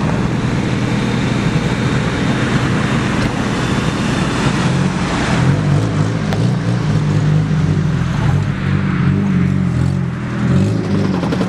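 Off-road 4x4 engines running at low revs as the vehicles come down a dirt slope. One passes close by about halfway through, and its engine tone is louder from then on.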